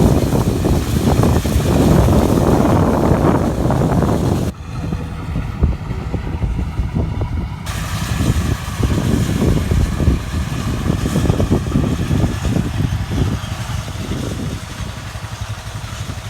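John Deere combine harvester running, its engine and machinery making a steady heavy drone. The sound drops suddenly about four and a half seconds in and carries on a little quieter.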